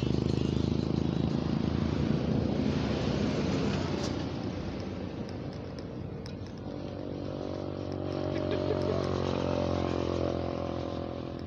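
A motor vehicle engine running. Rough rumbling noise for the first few seconds eases after about four seconds. A steady engine hum follows, swelling and then fading between about eight and ten seconds in.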